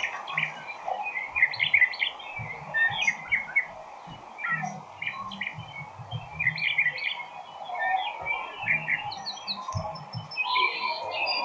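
Birds chirping in many quick short calls.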